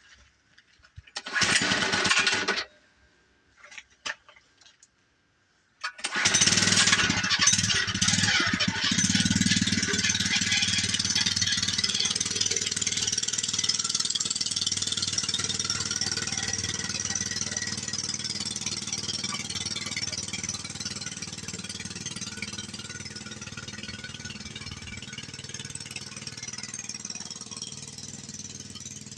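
A brief loud burst of noise a little over a second in, then about six seconds in a small motor starts and runs steadily, slowly fading.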